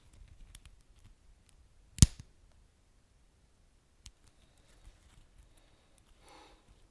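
Wood fire crackling: sparse faint crackles, with one loud sharp pop about two seconds in, a smaller pop about two seconds later, and a brief soft hiss near the end.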